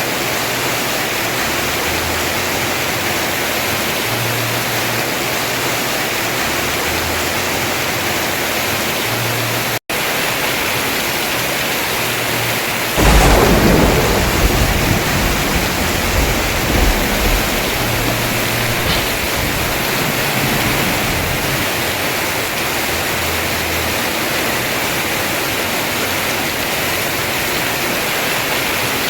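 Heavy rain falling steadily on a house roof. About 13 seconds in, a thunderclap breaks out and rumbles on for several seconds; the sound drops out for an instant a little before that.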